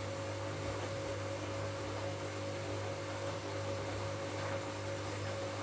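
Washing machine running during a bed linen wash: a steady electric motor hum with a faint hiss above it.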